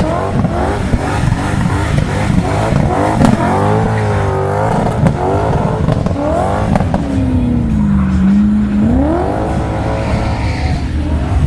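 V8-swapped BMW E46 drifting: the V8's revs rise and fall again and again as the car slides, with tyres squealing. About two thirds of the way through the revs sag low for a second or two, then climb again.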